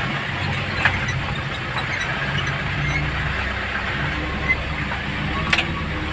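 Vehicle engine running steadily at low revs on a steep descent, with a few short sharp clicks over the top.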